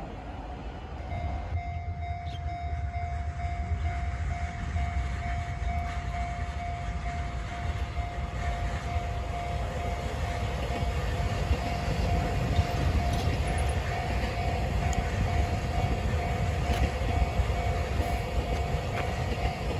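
Taiwan Railway EMU3000 electric multiple unit passing at speed, a steady low rumble of wheels on rail that grows slightly louder. A level-crossing warning bell rings steadily through it from about a second in.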